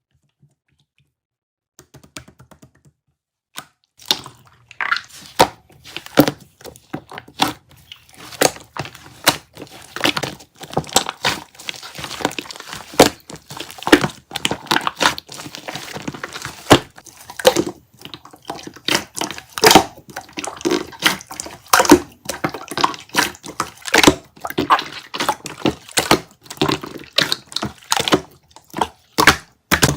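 Slime being squeezed, poked and stretched by hand, making dense, irregular wet pops, clicks and crackles that begin about four seconds in.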